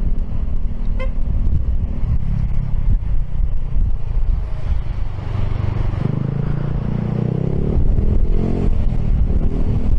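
Riding noise from a Piaggio X10 scooter in traffic: a steady low rumble of engine and road, with a pitched engine note growing louder about six seconds in.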